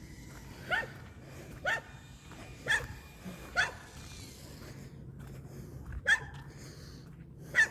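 A dog barking a warning at a stranger: six short, sharp barks, four about a second apart, then a pause of about two seconds and two more.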